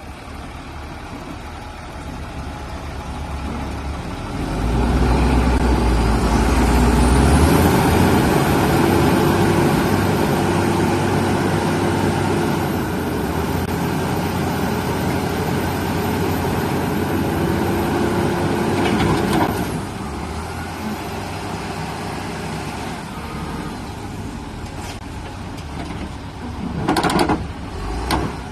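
Grain truck engine revved hard under load for about fifteen seconds, with a high whine, as the truck struggles to pull out of mud, then easing back to a lower run. A few sharp knocks near the end.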